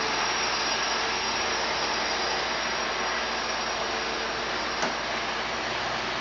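Small electric motor of an HO-scale Faller Car System model truck running along a slot-car track, a steady whir with a faint high whine. One short click comes near the end.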